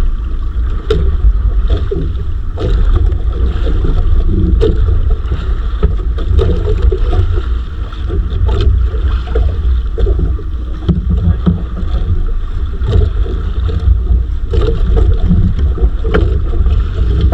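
Loud, steady low rumble of wind and water on a small fishing boat at sea, with scattered sharp knocks.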